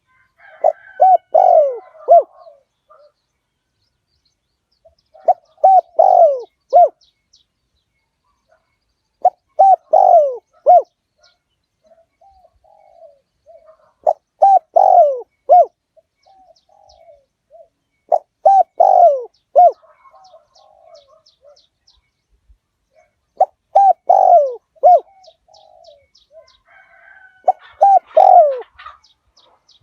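Spotted dove cooing: a phrase of several short coos that ends in a longer, falling coo, repeated about every four seconds, seven times. Faint chirps from small birds come between the phrases. This is a decoy call for luring wild spotted doves.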